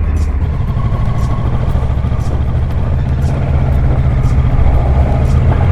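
Motorcycle engine running steadily at low revs while the bike is eased over loose ground.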